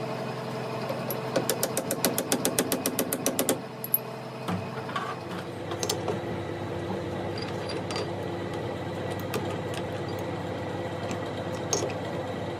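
A machine running steadily in a workshop. About a second in, a fast, even rattle of clicks, roughly nine a second, lasts about two seconds, and scattered single clicks follow.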